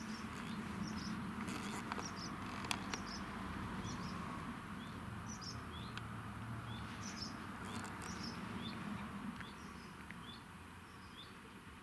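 Small birds chirping outdoors, short high notes repeating about once a second, over a steady low rumble, with a couple of sharp clicks between about two and three seconds in.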